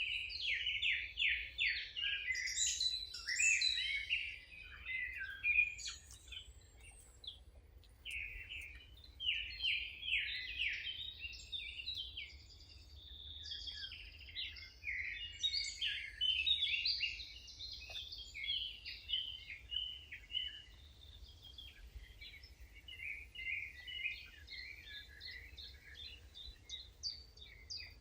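Wild songbirds singing and chirping: quick, overlapping trilled phrases in repeated bouts, a little fainter near the end. A steady low rumble runs underneath.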